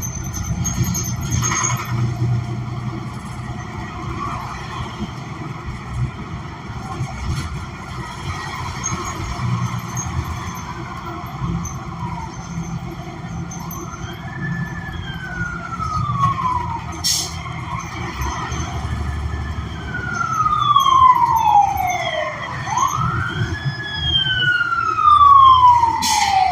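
Inside a 2016 New Flyer XN40 city bus on the move, its Cummins Westport ISL G natural-gas engine and drivetrain giving a steady low rumble with some rattles and clicks. About halfway through, an emergency vehicle's wail siren starts up outside, rising and falling in pitch three or four times and growing louder toward the end.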